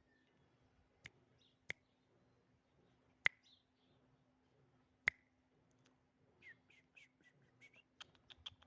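Small bird calling: a few sharp single chip notes spaced one to two seconds apart, then a quick run of short high chirps near the end, over a faint steady hum.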